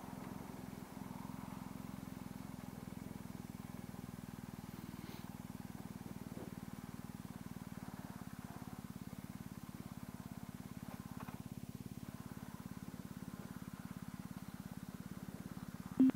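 Motorcycle engine idling steadily at a standstill, with a low, evenly pulsing exhaust note. A sharp click comes right at the end.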